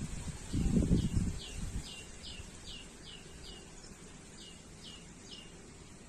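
A bird singing a run of about ten short, falling whistled notes, roughly two a second, over faint background noise. A brief low muffled rumble about half a second in is the loudest sound.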